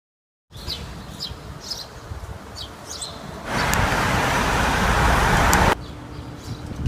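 Wind rumbling on the microphone with small birds chirping now and then, outdoors on a city street. About three and a half seconds in, a louder rush of passing traffic comes in and cuts off suddenly about two seconds later, leaving the wind and chirps with a faint steady hum.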